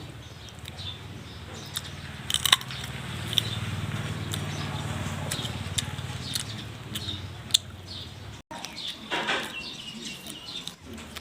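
Someone biting and chewing crisp jujube fruit, with sharp crunchy clicks scattered through, the loudest about two and a half seconds in. A low steady hum runs beneath, and it breaks off for a moment near the end.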